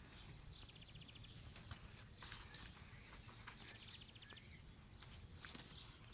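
Faint bird call, twice: a short falling high note running into a fast even trill of about half a second, with a few soft clicks in between.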